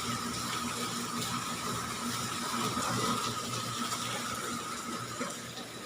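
Heavy rain falling, a dense patter of drops, over a steady low hum and a thin steady whine.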